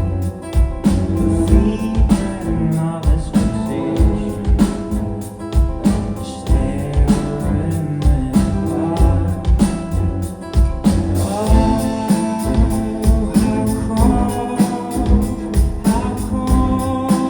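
Live rock band playing with a male lead vocal over guitars, bass and a steady drum beat.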